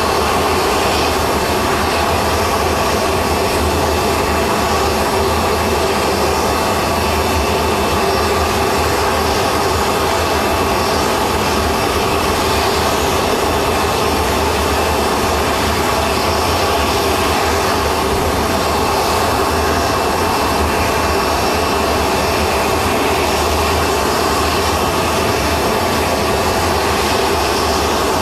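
Jet aircraft engine running steadily, an even rushing noise with faint high whines held at a constant pitch.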